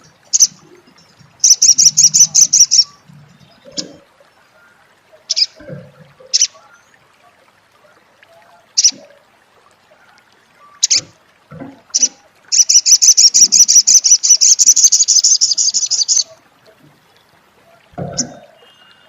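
Sogok ontong (little spiderhunter) giving its 'crecet' chatter: two loud runs of rapid high notes, about eight a second, the second run lasting over three seconds, with single sharp chips in between.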